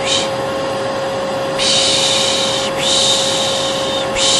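Vacuum cleaner running with a steady hum and a constant whine, with a person's long 'pşşş' shushes laid over it. There is a short shush at the start, two long ones back to back from about a second and a half in, and another beginning near the end: baby-soothing white noise.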